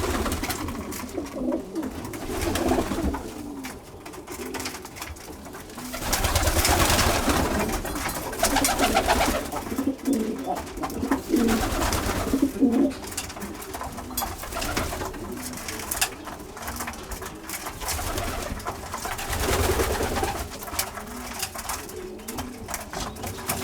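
Domestic pigeons cooing in a loft, several birds calling over one another, with louder stretches of noise in between.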